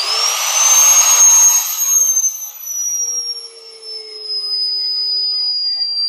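Electric drill motor spinning up with a quickly rising whine, then running steadily, its pitch sagging slightly. It is used for drilling 3/4-inch holes in half-inch steel plate. A loud rushing noise over the first two seconds dies down.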